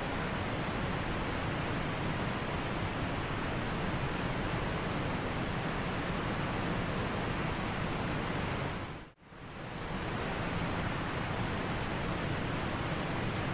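Steady rushing noise, with no tones or distinct events, that fades briefly to near silence about nine seconds in and then returns unchanged.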